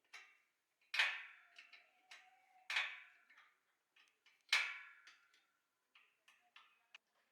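Metal objects knocked or set down hard: three sharp clanks with a short metallic ring, spaced nearly two seconds apart, among lighter clicks and taps.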